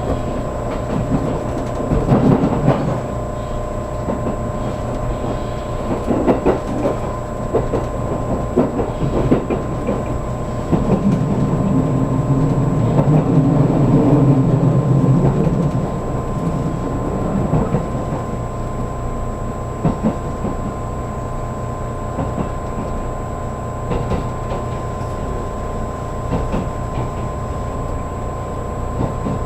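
Inside a JR Kyushu 783 series electric train car running on the line: a steady rumble of wheels on rail with scattered clicks of rail joints and a few steady whining tones. A louder, deeper rumble swells for several seconds around the middle.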